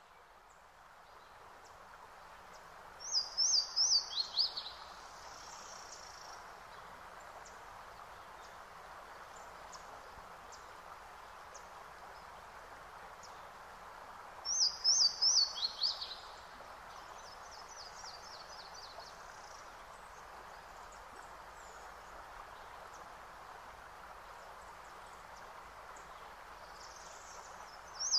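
Birdsong over a steady background hiss: a bird sings the same short phrase of quick descending chirps three times, about three seconds in, about fourteen seconds in and again at the very end.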